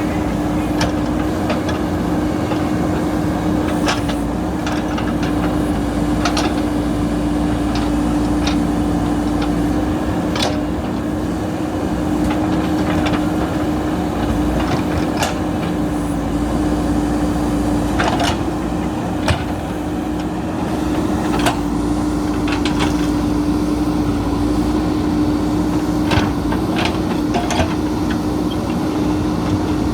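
JCB backhoe loader's diesel engine running steadily with a constant drone, with sharp knocks and clicks scattered through.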